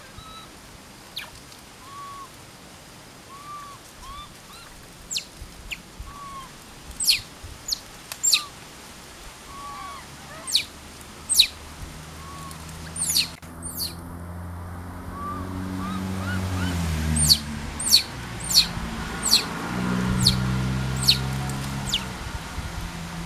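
Birds chirping over and over: softer arched notes in the first half and sharp, high, falling chirps throughout. From about halfway a low motor engine drones underneath, growing louder and shifting in pitch.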